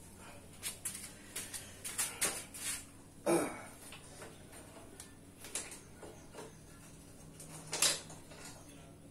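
Irregular knocks, taps and scrapes of parts and tools being handled, with the two loudest knocks about three seconds in and near eight seconds.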